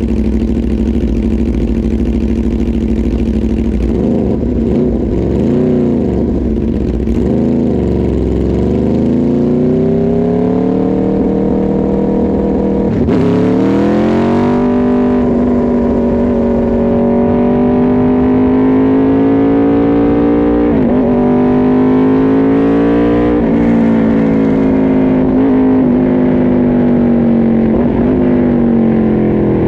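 Aprilia RSV4 RF's V4 engine running hard on track, its revs climbing and dropping as it shifts through the gears, with a sharp drop and quick climb about 13 seconds in and shorter dips later.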